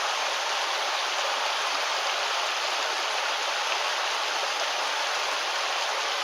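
Mountain stream water rushing over rocks, a steady even flow.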